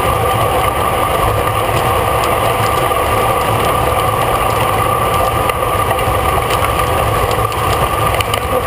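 Wind buffeting the microphone of a rider's camera during a road bike race, a loud steady rumble, with a steady whirring hum from the moving bicycle.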